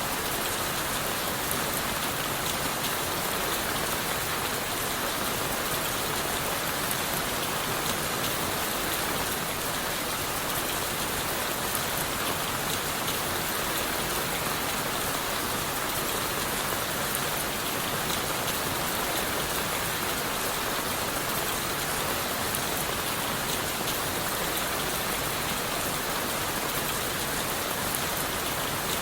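Steady rain falling on leaves, wood and the forest floor, an even hiss with fine scattered drop patter that holds constant throughout.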